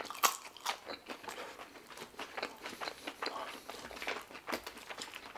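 Close-miked chewing of a mouthful of french fries: irregular soft crunches and wet mouth clicks.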